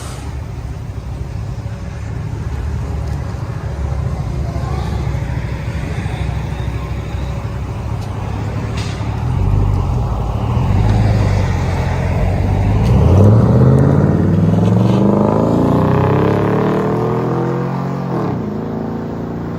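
Chevy 6.0 V8 exhaust through a Magnaflow Magnapack straight-through muffler, with a deep tone. It runs at idle for a while, then revs up in a long climb about two-thirds in and drops back to idle near the end.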